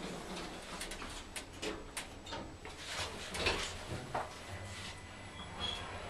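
ThyssenKrupp lift's single two-speed sliding doors closing, with a run of clicks and knocks from the door gear. About four and a half seconds in, a low steady hum starts as the car sets off downward, with a short high tone near the end.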